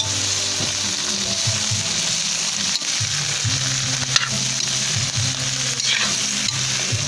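Yardlong beans and clams sautéing in hot oil in a metal wok, a steady sizzle. A metal spatula stirs them, scraping and knocking against the pan about four seconds in and again near six seconds.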